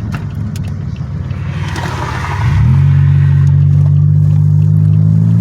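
Car engine and road noise heard from inside the moving car. About halfway through, the engine note swells quickly to a louder, steady low drone and holds there.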